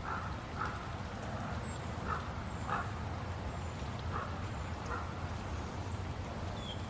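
Forest ambience: a steady rush of water under short animal calls that repeat about once a second or so, with a few thin, high bird chirps near the end.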